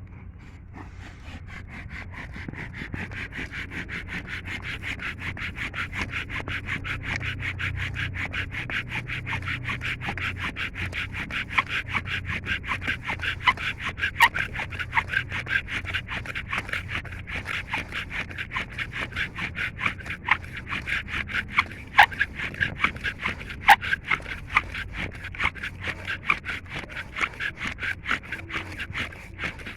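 Bow-drill fire-making: a wooden spindle spun by a bow grinds into a wooden fireboard in a fast, even back-and-forth rhythm of rubbing squeaks, with a few sharper squeaks partway through. This is the friction stage that builds an ember in the char dust.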